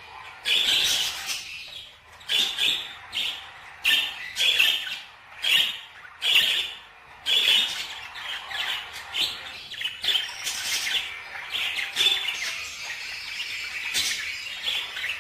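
Pet birds calling repeatedly with short, harsh calls, roughly one or two a second. In the second half these give way to a denser, softer run of chattering calls.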